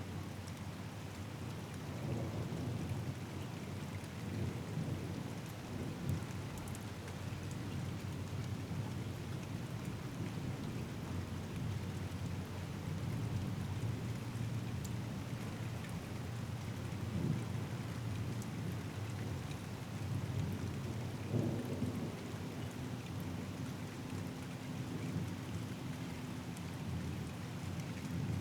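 Steady rain falling in a thunderstorm, with low rolling thunder swelling up several times.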